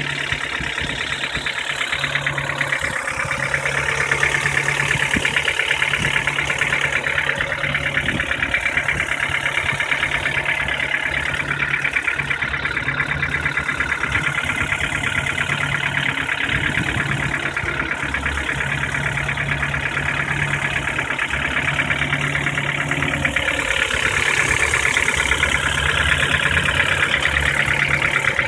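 Ford Duratec 1.6 inline four-cylinder petrol engine idling, with a rapid, steady knock ticking in time with the engine.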